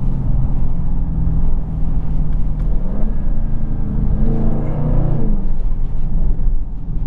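2020 Dodge Charger Scat Pack's 6.4-litre V8 running while driving. Its revs rise about three seconds in, climb further, then drop just after five seconds.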